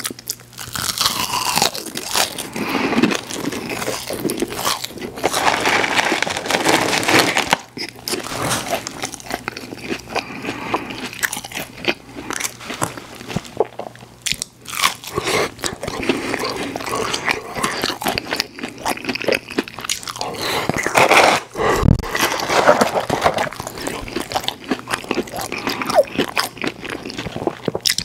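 Close-miked eating: crunching and chewing McDonald's French fries and crispy chicken nuggets, a dense run of crackly bites and mouth sounds with a few short pauses between mouthfuls.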